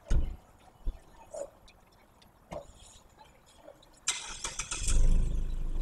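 Two dull thumps in the first second, then a car engine starts about four seconds in and keeps running with a steady low rumble.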